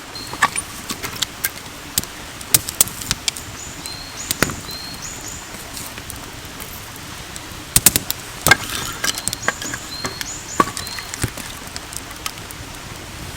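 Wood campfire crackling, with irregular sharp snaps and pops, a cluster of louder ones about eight seconds in.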